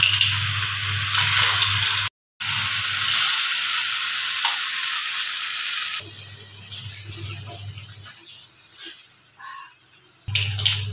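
Snails frying in a wok with onion and chili: a steady sizzle over a low hum. It cuts out briefly about two seconds in, turns much quieter after about six seconds, and comes back loud near the end.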